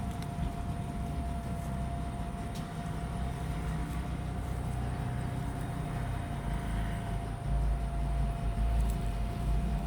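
A puppy gnawing on a bone, with a few faint clicks of teeth on bone, over a steady low hum with a constant whine in it, which grows a little louder near the end.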